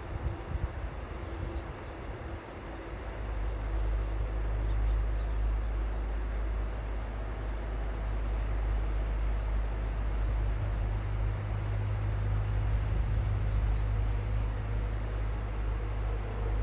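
River water flowing, a steady hiss over a low rumble that builds about three seconds in and then holds.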